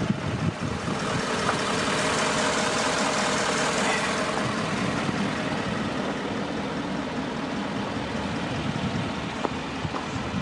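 2012 Ford F550 truck engine idling, with a broad hiss that swells over the first few seconds.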